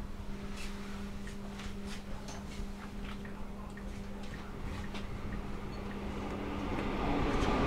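Steady electrical hum inside a Hanshin Railway train, with scattered light clicks. About six and a half seconds in, a louder rushing running noise swells up as the train gets under way.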